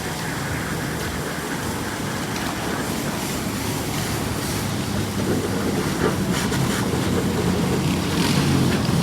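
An engine running steadily, its low hum growing louder over the last few seconds.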